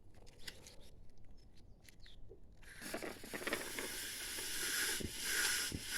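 Air and leftover engine oil being sucked out through a tube from a Makita MM4 four-stroke strimmer's sump: a few faint clicks, then from about three seconds in a steady hiss with short sputters that grows louder.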